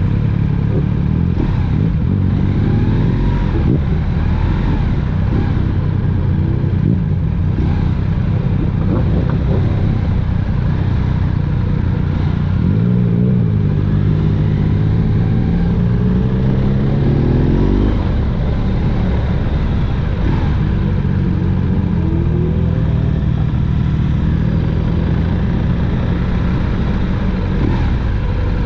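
Motorcycle engine running under way, its pitch rising and falling a few times as the throttle changes.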